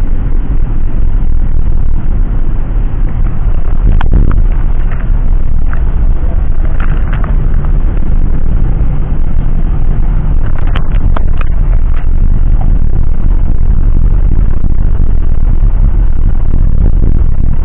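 Jet airliner cabin noise: a loud, steady low rumble of engines and airflow, with a few faint clicks.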